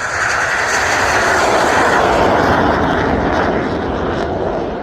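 Jet aircraft passing by, its engine roar rising to a peak about two seconds in and then slowly fading.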